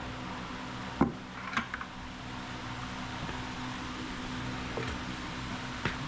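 Steady electric-fan-like hum with a few sharp knocks and clatters of tools and containers being handled: the loudest about a second in, a smaller clatter just after, and one more near the end.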